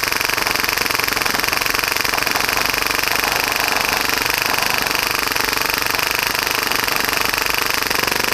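Full-auto HPA-powered Tokyo Marui Hi-Capa airsoft pistol firing in one long continuous burst at about 30 rounds per second, a fast, even rattle of shots.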